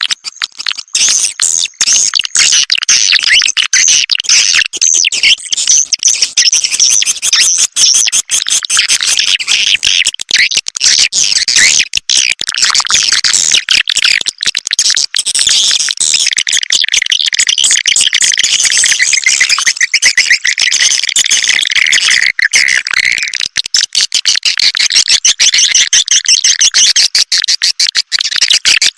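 Swiftlet calling recording: dense, continuous, rapid chirping and twittering of many swiftlets, the kind of lure sound played to draw swiftlets into a nesting house.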